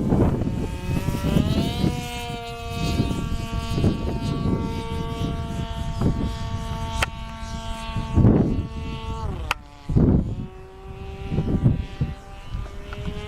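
O.S. Wankel rotary model engine driving the propeller of a flying RC Tiger Moth: a steady buzzing engine note that rises in pitch over the first two seconds, holds, drops sharply about nine seconds in, and runs on lower before falling away at the end. Gusts of wind rumble on the microphone.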